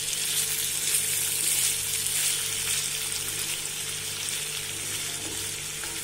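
Potato cubes sizzling steadily in oil in a kadai as they are stirred with a spatula.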